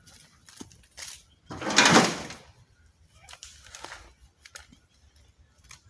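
A shovel scraping into soil once, a rough noise about a second long, with a few light knocks around it.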